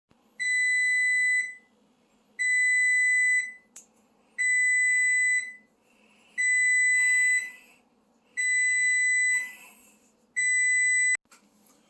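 Frigidaire Gallery double oven's control panel sounding its fault alarm: a steady high beep about a second long, repeating every two seconds, six times in all, the last one cut short by a sharp click. The alarm goes with the oven's F20 error code.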